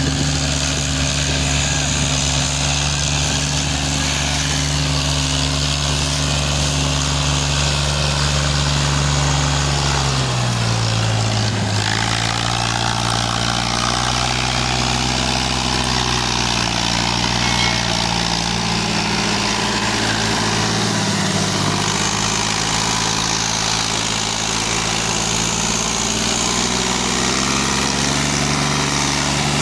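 Fiat 480 tractor's diesel engine running under load. It runs steadily at first, then about ten seconds in its speed drops as it is pulled down, and it wavers up and down for a while before settling back to a steady pace near the end.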